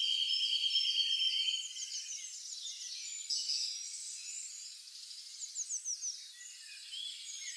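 Several songbirds chirping and twittering in quick short notes, with a steady buzzing trill for the first couple of seconds. The sound is thin, with no low end at all.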